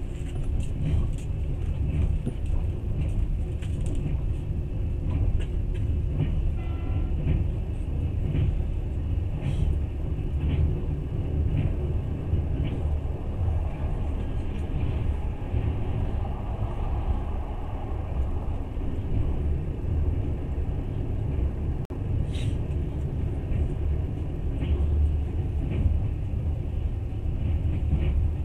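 Passenger train running along the rails, heard from inside the carriage: a steady low rumble with scattered light clicks and one sharper knock about 22 seconds in.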